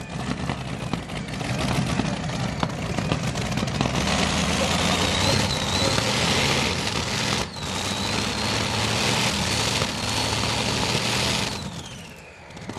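Light modified pulling tractor's engine running hard under load, with a high whine on top. The sound drops out for a moment about halfway, then dies away near the end as the whine falls in pitch.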